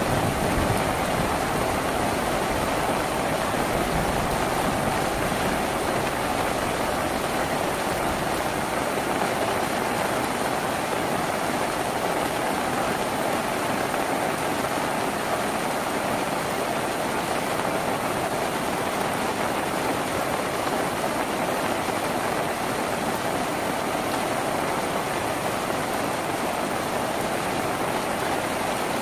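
Steady, even rain on a tin roof.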